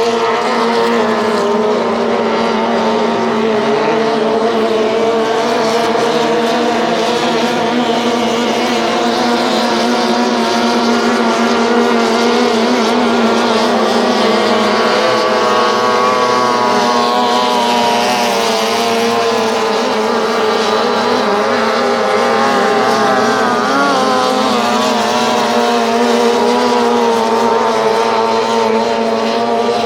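Outboard motors of racing tunnel boats running hard, several engines heard together at high revs. Their pitch sweeps up and down through the middle as the boats pass.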